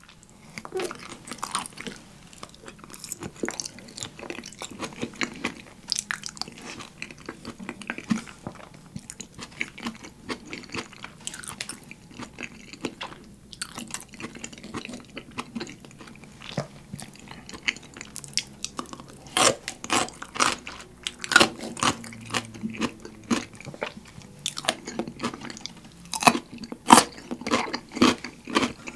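Close-miked eating sounds: wet chewing and mouth clicks on creamy shrimp carbonara, with sharper crunching bites of white cubes from a side bowl, louder and denser in the second half.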